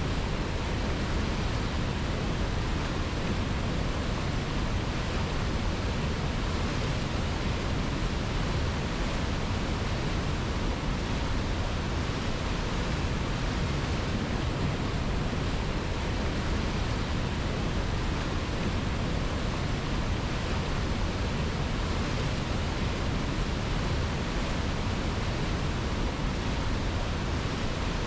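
River water rushing in a steady, even stream, with no breaks or changes.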